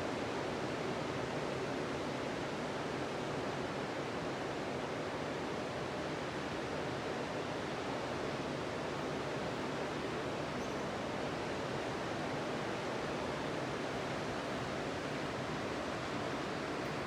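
Ocean surf breaking on a sandy beach, a steady, even wash of waves with no separate crashes standing out.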